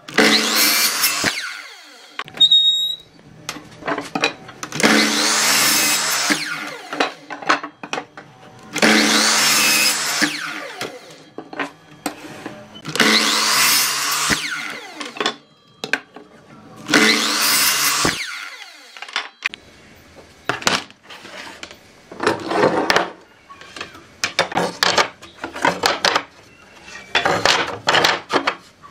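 A handheld power tool working wood in repeated bursts of about two seconds each, roughly every four seconds. In the second half the bursts become shorter and choppier.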